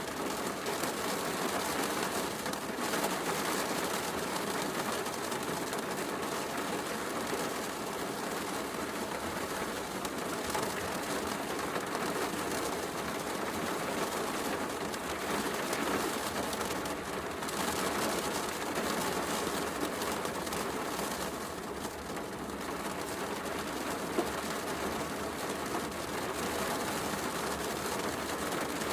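Heavy rain falling steadily, mixed with a crackling wood fire. There is one sharp click about three-quarters of the way through.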